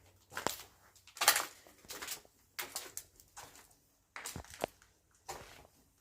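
Footsteps crunching over debris on a floor, irregular steps about one or two a second.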